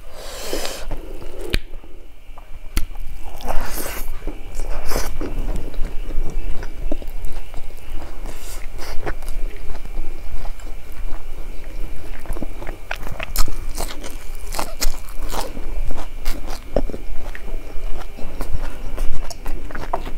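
Close-miked chewing and biting of a mouthful of rice mixed with stink bean seeds, with many short wet mouth clicks and crunches.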